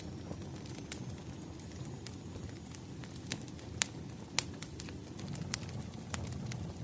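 Wood fire crackling: a steady low rumble of burning logs with sharp, irregular pops and snaps, a few louder ones around the middle.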